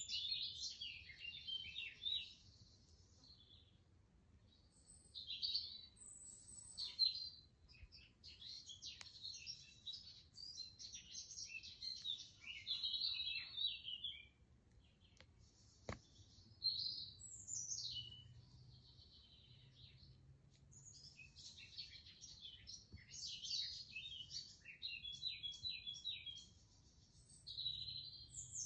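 Small birds singing, with short, high twittering and chirping phrases that come and go. There is a single sharp click about halfway through.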